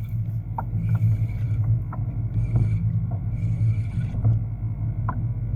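Steady low rumble of wind and water around a kayak at sea, with water splashing against the hull in surges every second or so and a few short clicks.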